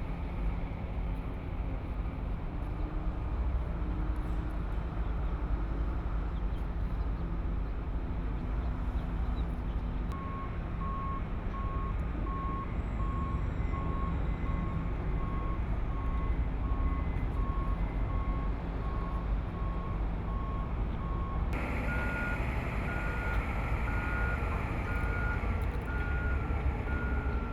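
Heavy construction machinery running with a steady low diesel rumble. A reversing alarm starts beeping about a third of the way in, at about one beep a second, and near the end a higher-pitched backup beeper takes over.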